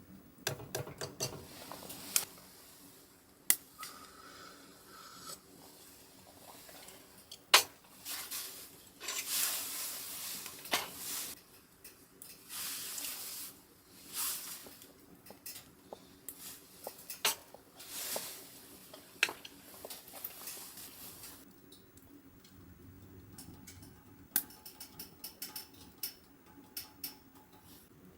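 Cooking gear being handled: pots, pans and utensils giving scattered clinks and knocks, with several noisy stretches of about a second each in between.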